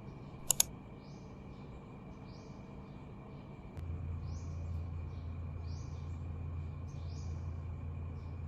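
Ambient sound with short, repeated bird-like chirps over a faint steady hiss and a thin high tone. Two sharp clicks come about half a second in, and a steady low hum comes up about four seconds in.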